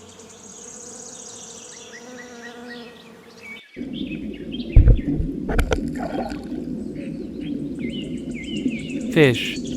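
Bees buzzing: a steady hum with birds chirping faintly behind it. About three and a half seconds in, it changes to a louder, closer buzzing, with a couple of thumps soon after.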